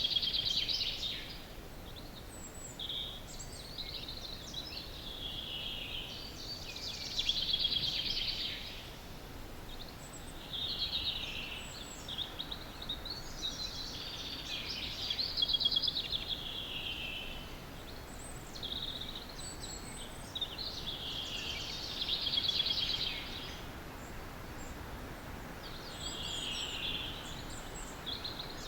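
Dawn chorus in woodland: a songbird repeats a short song phrase that falls in pitch, about every three to four seconds, with faint high calls of other birds and a steady background hiss.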